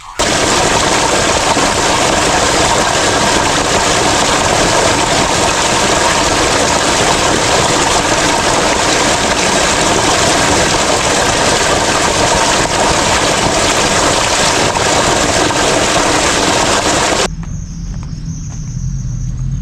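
Creek water rushing loudly and steadily, cutting off suddenly about seventeen seconds in.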